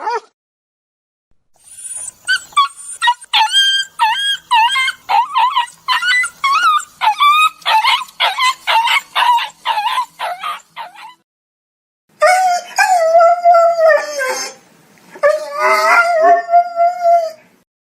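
A dog giving a quick run of short, high-pitched yelping whimpers, two or three a second, then two long howls, the first dropping in pitch at its end.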